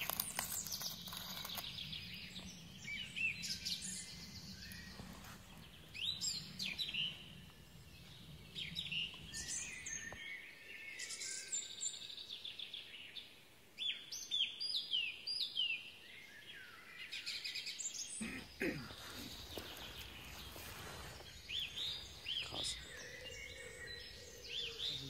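Woodland birds singing: repeated short high chirps and trills, many of them sliding quickly downward in pitch.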